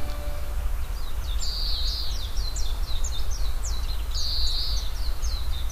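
Birds chirping outdoors in many short, quick high notes, broken by a few longer trilled phrases, over a steady low rumble.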